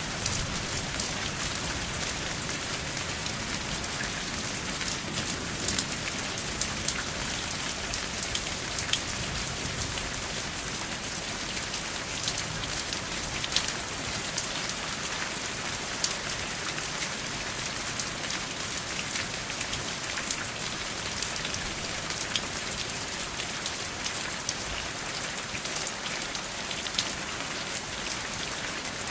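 Steady rain falling, a continuous hiss with many sharp individual drop ticks on top, and no thunder.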